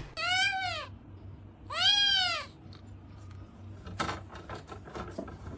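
Cat meowing twice, each meow a drawn-out call that rises and falls in pitch, followed by a few faint clicks.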